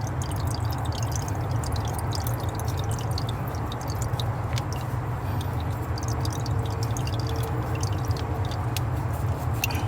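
Small close-quarters tubing cutter being spun around a 3/4-inch copper pipe, its cutting wheel giving scattered light clicks and scraping as it scores the pipe, over a steady low hum.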